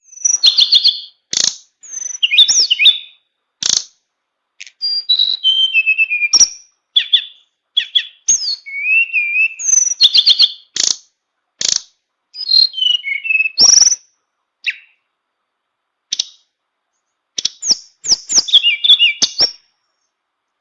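Tame tledekan songbird singing a flute-like whistled song, varied phrases that rise and fall, full of learned fill-in phrases, in short bursts with brief pauses. Sharp clicks come in among the phrases.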